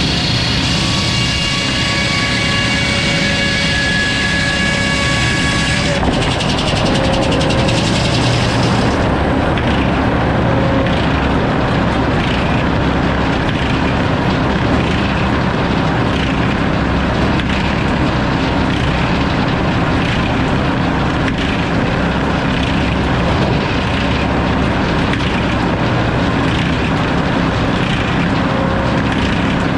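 Sawmill saw running and cutting lumber. For about the first six seconds a high whine with several steady tones sits over the cut, and it dies away by about nine seconds, leaving the steady lower running noise of the mill.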